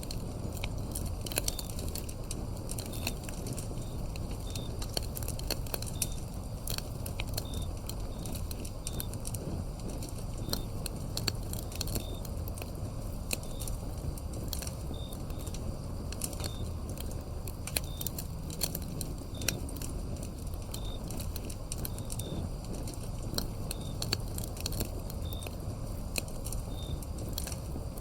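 Firewood burning with irregular crackles and pops over a low, steady rumble of the fire, while a cricket chirps in short high notes about once a second.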